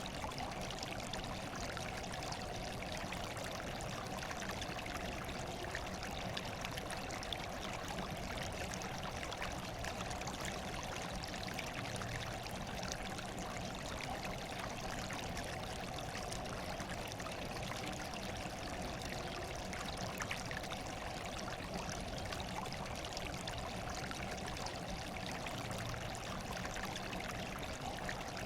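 Steady running water with an even rushing hiss that does not change.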